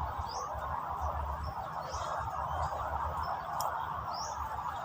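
Outdoor ambience by the water: a steady hiss with a low rumble, and a few short, high, rising bird chirps about three times.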